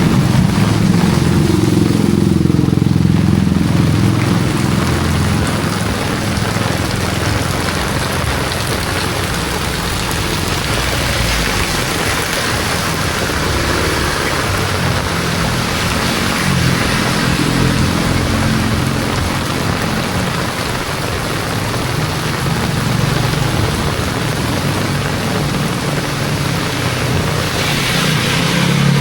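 Heavy rain hissing steadily on the street, with motor vehicles running and passing through it; the engine rumble is strongest in the first few seconds and again near the end.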